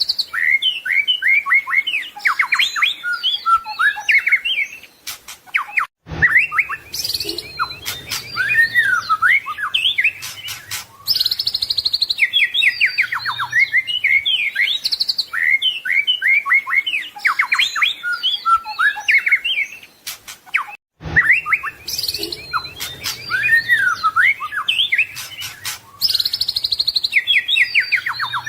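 White-rumped shama (murai batu) singing a fast, varied song of rapid chirps, trills and whistled phrases, with its learned 'isian' phrases. It breaks off for a moment twice.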